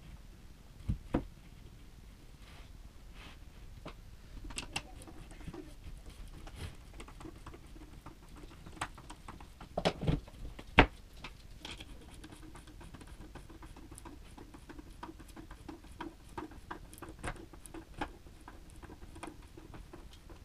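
Scattered light clicks and knocks, with a few sharper knocks around a second in and again about ten seconds in. A faint steady hum runs under them from about four seconds on.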